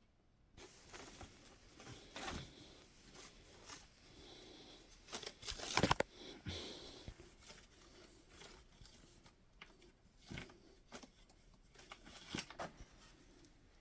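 Rustling and crinkling from something being handled, with scattered knocks, the loudest about six seconds in.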